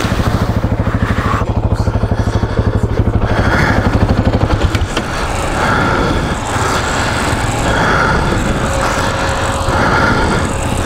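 Single-cylinder engine of a KTM 640 Adventure motorcycle running under way off-road, its separate low firing pulses plain at first, then merging into a steadier, noisier sound about five seconds in.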